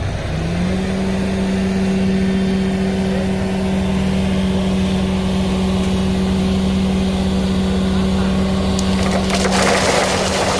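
An engine speeds up about half a second in and then runs at a steady higher speed. About nine seconds in, a louder rough, scraping noise joins it.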